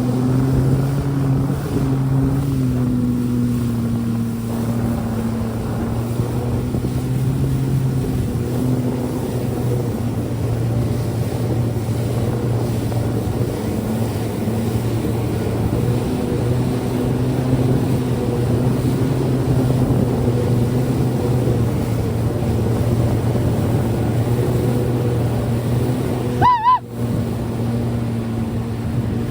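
Jet ski engine running at a steady pitch, with water rushing under the hull. A brief high, wavering sound comes near the end.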